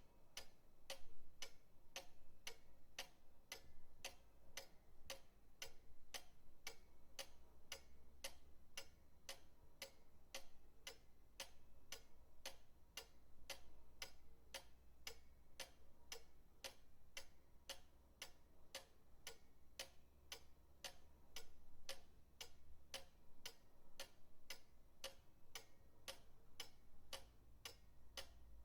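Pendulum clock ticking steadily, about two crisp ticks a second.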